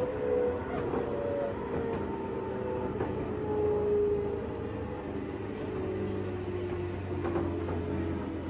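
JR West 201 series electric train, heard inside a motor car, slowing for a station: the chopper-controlled traction motors whine in several tones that fall steadily in pitch under braking, over a steady low hum. A few sharp clicks come near the end.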